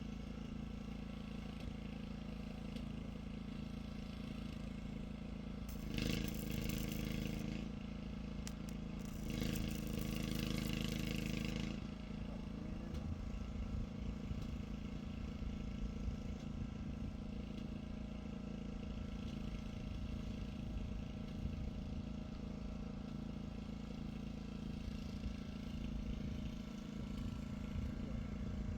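An engine running steadily, with two louder, hissing stretches of a few seconds each, about six and nine seconds in.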